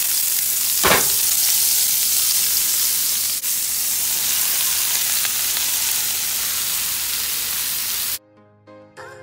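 Chopped onions and sliced mushrooms sizzling loudly in a hot skillet of oil left from frying chicken, stirred with a spatula, with a sharp knock about a second in. The sizzle cuts off suddenly near the end and music comes in.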